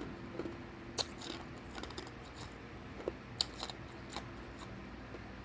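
A person biting and chewing hard ice: several sharp, irregular crunches and cracks, the loudest about a second in and again a little past three seconds.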